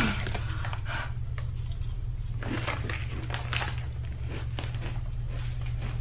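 A person breathing hard through the mouth, with a few sharp exhalations, while suffering from the burn of ghost pepper chips. A steady low hum runs underneath.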